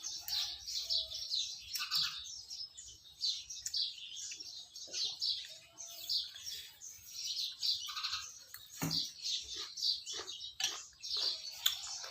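Many small birds chirping continuously in quick overlapping calls, with a few sharp clicks or knocks near the end.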